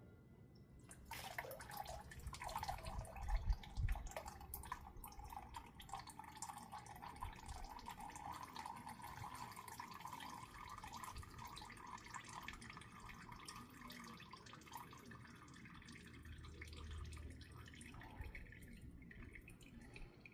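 Engine oil pouring in a stream into a drain pan. It starts about a second in and thins out toward a trickle near the end.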